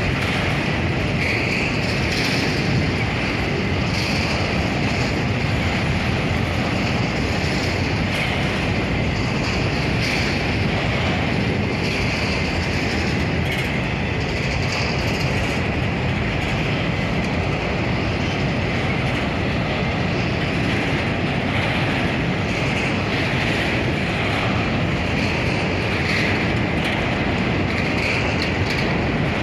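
Freight train wagons rolling steadily past, a continuous rumble and rattle of wheels on rail that neither starts nor stops.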